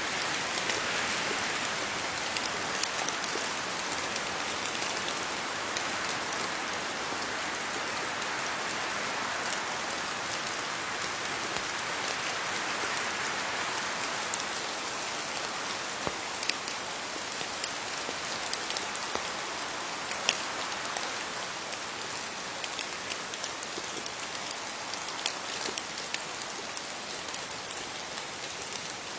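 Steady rain falling on leaves, a continuous patter with scattered sharper drops standing out now and then.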